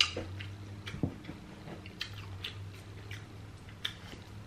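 Close-miked eating of king crab: soft chewing with scattered small clicks and crackles of crab shell being handled, over a steady low hum.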